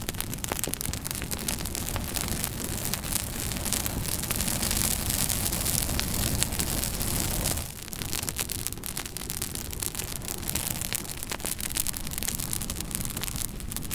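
Wood fire burning in a fireplace: a steady hiss with many sharp crackles and pops, easing a little about eight seconds in.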